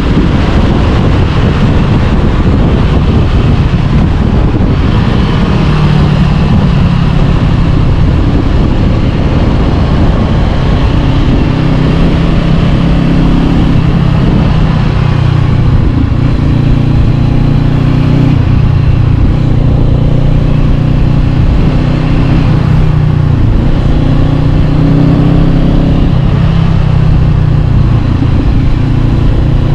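Honda CB500X parallel-twin engine running through an Arrow Pro-Race exhaust while ridden, its note rising and dropping several times with throttle and gear changes.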